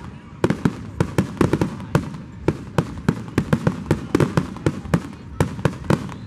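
Aerial fireworks display in a rapid barrage: shells bursting one after another, about four sharp bangs a second.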